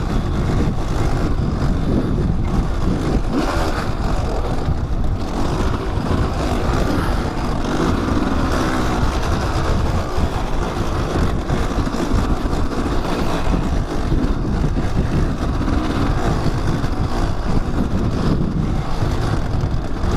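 Kawasaki dirt bike engine running on a trail ride, its pitch rising and falling as the throttle is worked, with steady wind noise on the helmet microphone.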